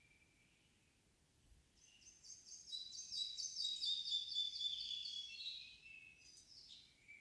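A songbird sings one long song of rapid, repeated high notes lasting about four seconds, loudest in the middle and tailing off. Fainter short whistles of another bird come before and after it.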